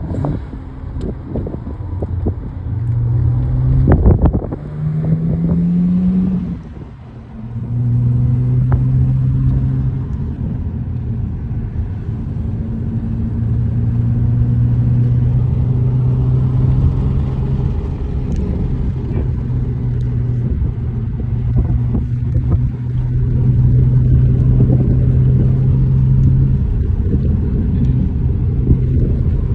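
Car engine and road rumble heard from inside the cabin while driving. The engine note rises about five seconds in, drops with a brief dip in level around seven seconds as at a gear change, then settles into a steady low drone. A single knock sounds about four seconds in.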